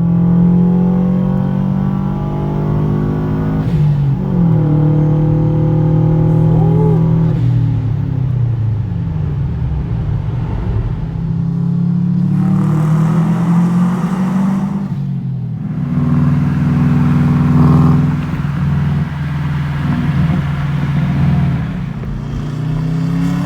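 Subaru WRX's turbocharged flat-four running through an aftermarket exhaust under way, its note climbing and dropping several times, with a sharp break about fifteen seconds in.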